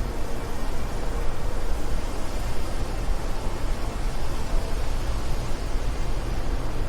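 Steady wind blowing: a continuous rushing noise with a strong low rumble, rising and falling slightly in loudness without a break.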